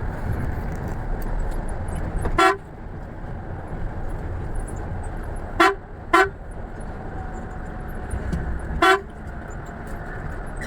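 Vehicle horn honking four short times, the middle two close together, over the steady low rumble of a moving bus's engine and road noise.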